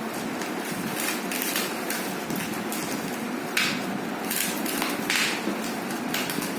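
Irregular knocks and taps with brief crackly rustles, typical of a boxed monitor and its packaging being handled and opened.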